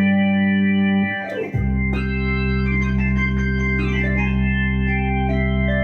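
Roland Fantom FA76 synthesizer playing a B3-style Hammond organ patch: held chords over a sustained bass note. About a second in there is a quick sweep across the keys, then the chord changes and holds, with a few smaller chord changes near the end.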